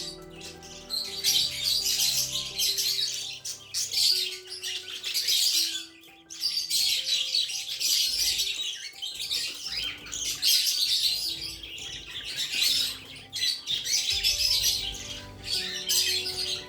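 Budgerigars chirping and chattering continuously, with a brief lull about six seconds in, over background music.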